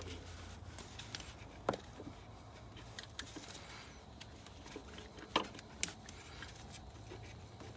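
Scattered light clicks and clinks of hand tools and metal parts during work on an alternator installation, with three sharper knocks. A low steady hum runs underneath.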